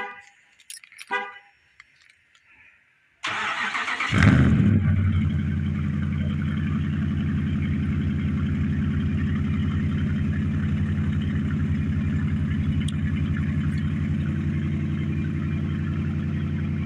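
Cold start of a Ram pickup's Hemi V8 through a 5-inch aftermarket exhaust, after the truck has sat for a couple of days. Two short beeps come first, then the starter cranks for about a second. The engine catches with a loud flare and settles into a steady, deep idle.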